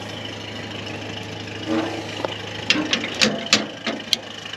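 Diesel tractor engine idling steadily, with a few sharp clicks and knocks in the second half.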